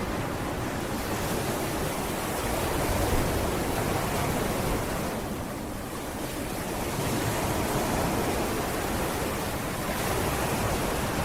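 Sea waves washing onto a beach: a steady rushing surf that eases about halfway through and swells again about seven seconds in.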